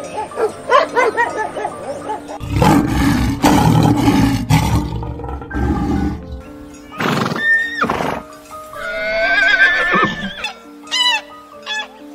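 Background music under a run of short animal-call clips: a dog barking at the start, a deep rough growl from about two and a half seconds in, two long wavering animal calls in the middle, and geese honking in short repeated calls near the end.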